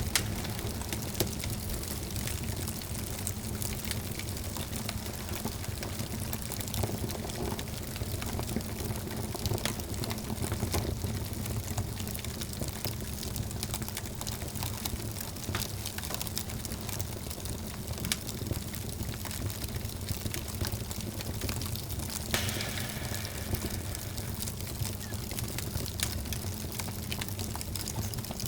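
Wood fire burning in a fireplace: a steady low rush of flames with scattered sharp crackles and pops from the burning logs, and a short hiss about three quarters of the way through.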